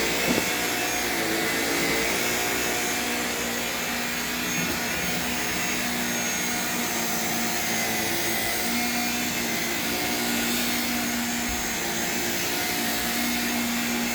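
Shark vacuum cleaner running steadily over carpet: a constant motor hum and whine over the rush of air.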